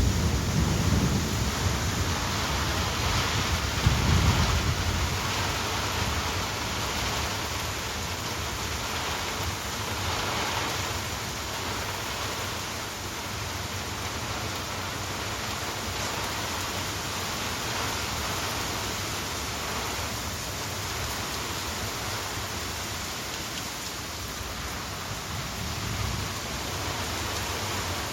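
Rain falling steadily in a storm, an even hiss, with deep low rumbles in the first few seconds, about a second in and again around four seconds.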